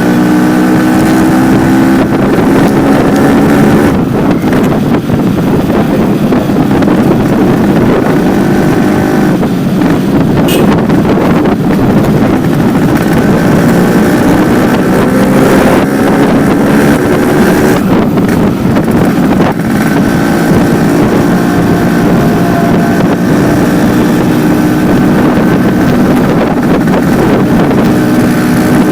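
Yamaha RX-King's 135 cc two-stroke single-cylinder engine running loudly through its stock silencer fitted with only the baffle screen, its pitch rising and falling again and again.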